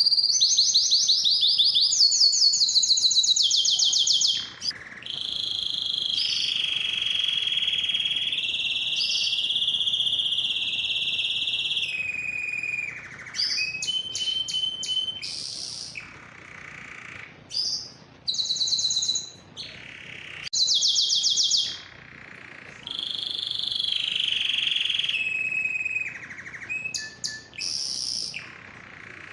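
Male domestic canary singing a long song built from phrases a few seconds each. It opens with a fast, high trill, then holds a long rolling note for several seconds, then moves through quicker rattling trills and more held notes with short breaks between them.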